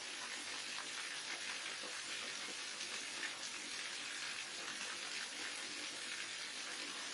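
Waterfall: water falling in a steady, even rush with a bright hiss.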